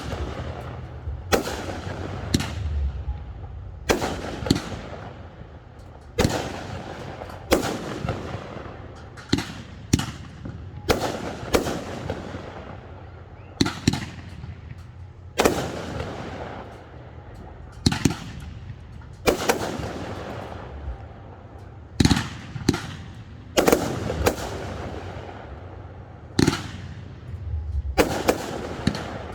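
Fireworks display: firework shells bursting one after another, a sharp bang every second or two, each trailing off in a fading tail.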